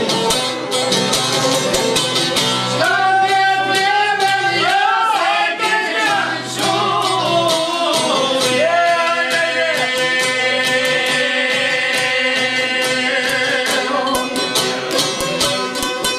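Albanian folk song: rapid plucked qifteli playing, with a voice singing a wavering, ornamented line for several seconds in the middle before the instruments carry on alone.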